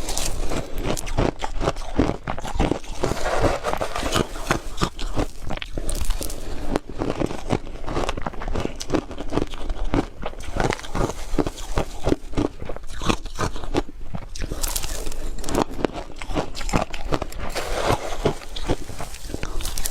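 A person chewing hard crushed ice, with rapid, continuous sharp crunches as the ice cracks between the teeth.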